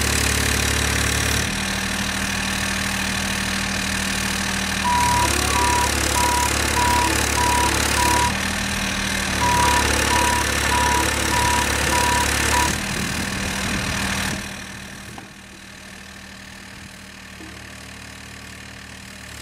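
Volvo ECR38 mini excavator's diesel engine running. It works harder in two spells, each lasting a few seconds, and during both a travel alarm beeps about twice a second, a sign the machine is tracking. About fifteen seconds in, the engine sound drops off sharply and stays low.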